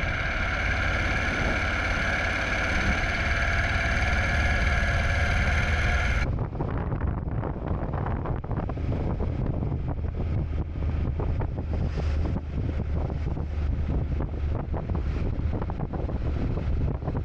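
Steady high-pitched hum of several tones for about six seconds, over a low rumble; it cuts off abruptly. After that, a low rumble with wind buffeting the microphone.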